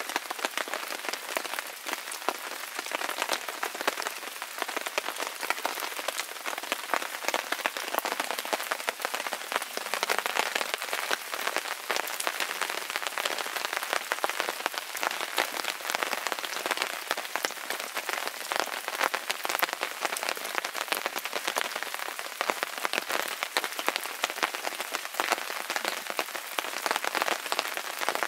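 Steady rain falling, a dense stream of small drop hits.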